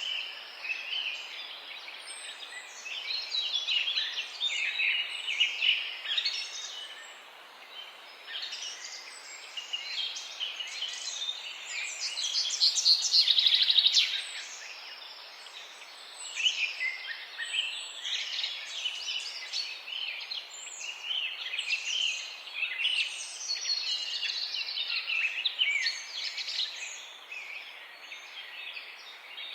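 Morning chorus of many songbirds chirping and singing at once, short overlapping calls and whistles over a faint steady hiss. About halfway through, one bird's rapid trill swells for a couple of seconds and is the loudest sound, then stops.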